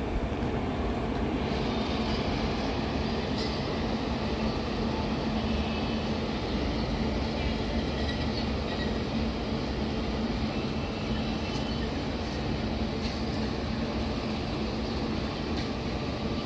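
Express passenger train pulling out of a station, its coaches rolling by in a steady rumble with a low steady hum and a few faint clicks.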